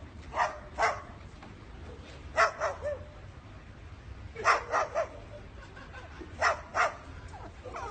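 A parrot imitating a dog's bark: short barks in groups of two or three, a fresh group about every two seconds.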